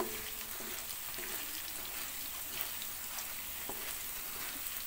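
Potato strips deep-frying in hot oil in a wok: a steady sizzle with scattered crackles. Metal tongs stir and turn the fries in the oil.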